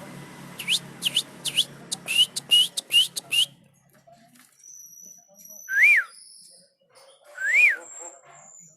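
Javan myna calling: a quick run of about ten sharp, clicking chirps, then two loud whistles that rise and fall, with thin high notes around them.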